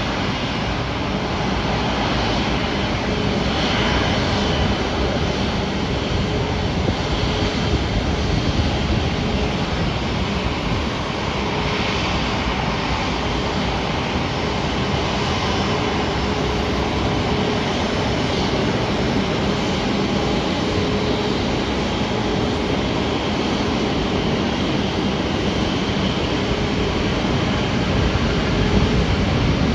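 Jet airliner engines running steadily: a continuous rumble with a faint steady whine.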